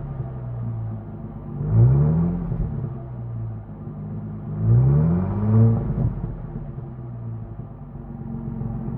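2000 Ford Mustang's 3.8-litre V6 heard at the tailpipe, idling and revved twice, about two and five seconds in. Each rev rises in pitch and falls back to idle, and the engine then idles steadily.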